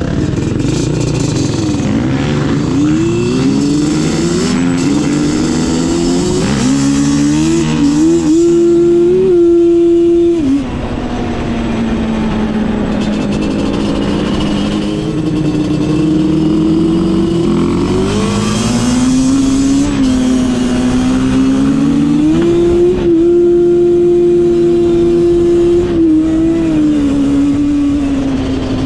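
Off-road vehicle engine under load on a trail, revving up and down. Its pitch climbs in steps and holds high, falls away about ten seconds in, then climbs and holds high again from about eighteen seconds.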